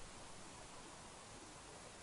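Near silence: a faint, steady hiss of background noise with no distinct sound in it.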